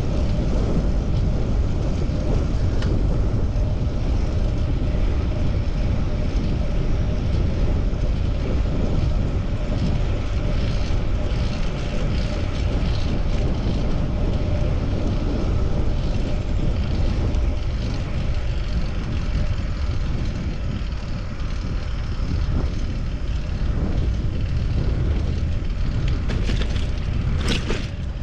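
Steady wind rumble on the microphone with road and tyre noise from a moving fixed-gear bicycle. Two short, sharp high sounds come near the end.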